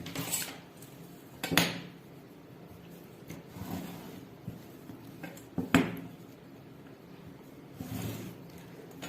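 Drafting tools and fabric handled on a cutting table while a blouse pattern is marked out: a few sharp taps, about three, with soft rustling between.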